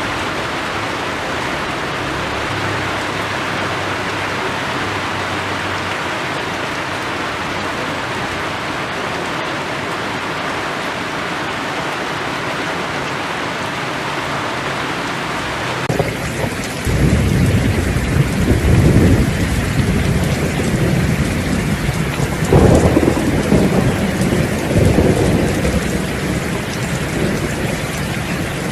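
Steady rain falling. About halfway through the recording changes abruptly to rain with thunder: several low rumbles swell and fade under the rain.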